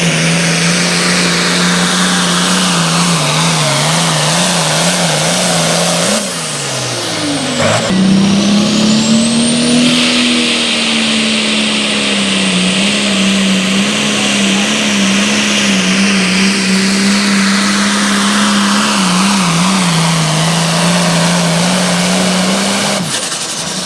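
Pulling vehicle's engine running wide open under load as it drags a weight-transfer sled, its pitch wavering. The pitch falls away about six seconds in and climbs back up about two seconds later. The engine drops off near the end.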